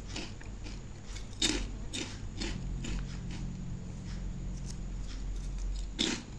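Crunchy chicken-flavoured packaged snack being bitten and chewed: a few sharp crunches, the loudest about a second and a half in and again near the end, with quieter chewing between.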